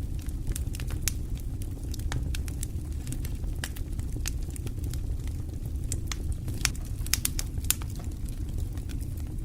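Wood fire crackling in a fireplace: a steady low rumble of flames with frequent sharp pops and snaps, a cluster of louder pops between about six and a half and eight seconds in.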